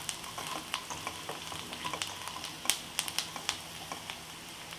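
Diced potatoes, onions and peanuts frying in oil in a nonstick wok, sizzling steadily as a wooden spatula stirs them, with frequent sharp irregular clicks and scrapes.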